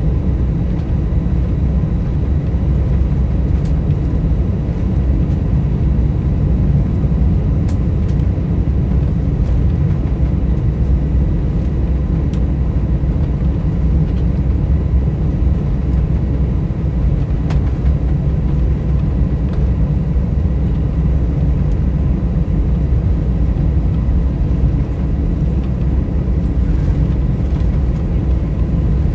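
Steady cabin noise inside an Airbus A320 with its engines running: an even low rumble that does not change, with faint steady high tones above it.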